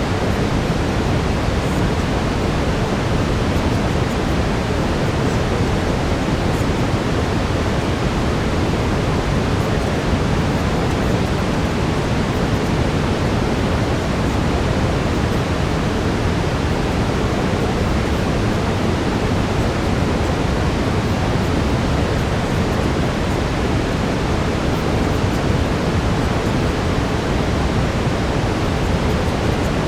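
Steady, unbroken brown noise: an even rushing hiss, heaviest in the low end.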